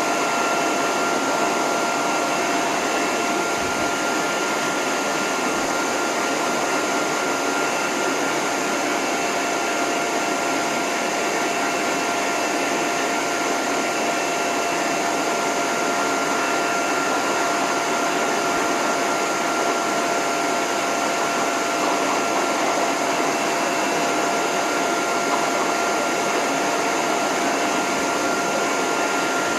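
Dog grooming hose dryer blowing steadily on its lowest setting, with its end nozzle off, as a continuous rush of air with a steady whine from the motor.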